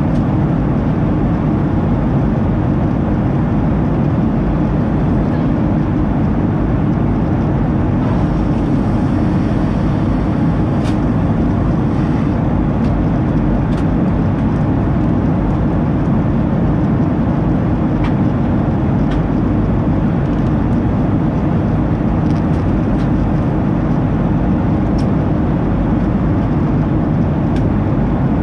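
Boeing 737-800 cabin noise at a rear window seat: the CFM56 engines and airflow give a loud, steady, deep rumble. A few faint clicks and rattles sound through it.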